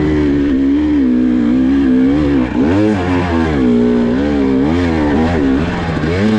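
GasGas EC300 two-stroke dirt bike engine running at low revs, then blipped up and down in pitch several times from about halfway through as the rider works the throttle.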